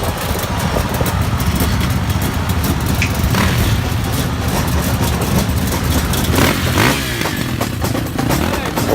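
Motorcycle engine running loud and steady.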